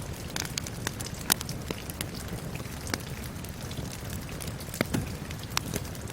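Steady rain hiss mixed with a crackling wood fire, with sharp pops and snaps every second or so, the loudest about a second in and near the end.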